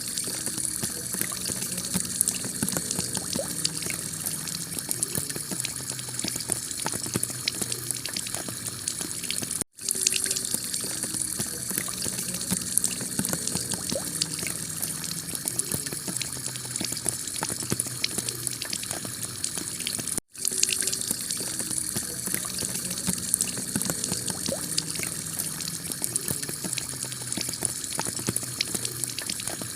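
Heavy rain pouring steadily onto clay roof tiles, a dense hiss full of fine drop ticks. The sound drops out for an instant twice, about ten seconds in and again about twenty seconds in.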